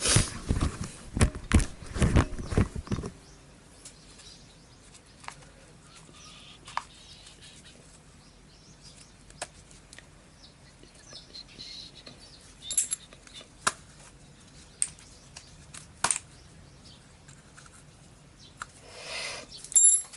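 Metal parts and tools clattering and clinking for about three seconds, then small scattered taps and clicks of hand work, with a brief rustle near the end.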